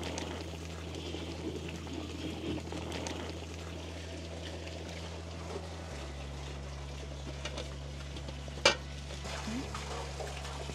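Meat frying in a covered kazan cauldron over a fire, a low steady sizzle with small crackles. One sharp click or knock, the loudest sound, comes near the end.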